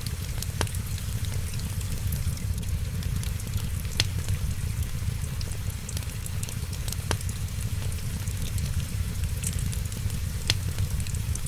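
Wood fire crackling in a fireplace, with many small ticks and four sharp pops about three seconds apart, over a steady low rumble and the hiss of rain.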